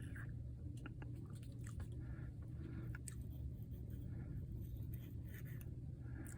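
Faint scattered clicks and short scratches of small handling on a workbench, over a steady low hum.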